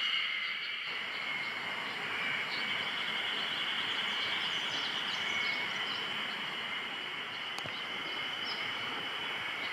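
Steady outdoor ambience: a continuous high insect drone over an even hiss, with a single faint click about seven and a half seconds in.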